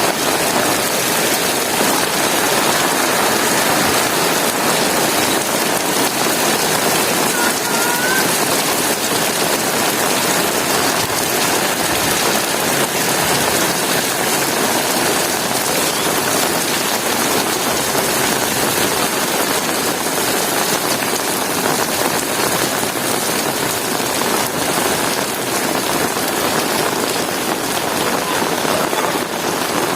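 Heavy rain pouring steadily, a dense even hiss of drops on surfaces.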